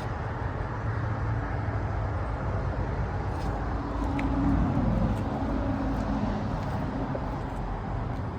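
Outdoor unit of a 2002 Trane XB10 two-ton central air conditioner running, its Climatuff reciprocating compressor and condenser fan giving a steady low hum. A car passes by, loudest about halfway through, then fades.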